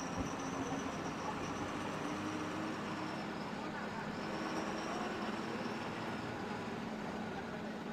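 KSRTC bus under way, heard from inside: steady engine and road noise with a low hum and a thin high whine.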